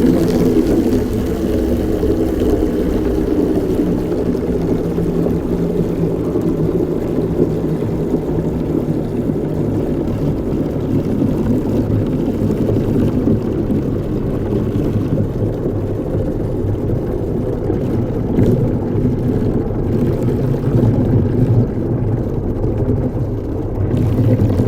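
Campfire burning with a steady low rumble and a few faint crackles.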